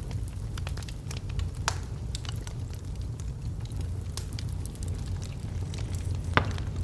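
Wood logs burning in a fireplace: a steady low rumble of flame with frequent small crackles and sharper pops, the loudest pop near the end.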